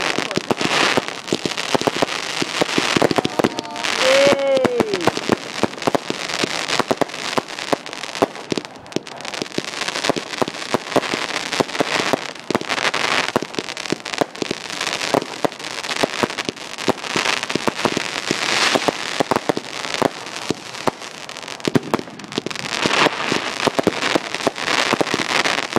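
Fireworks display: a continuous run of sharp bangs and crackling from bursting shells, thickening into dense clusters of crackle every few seconds.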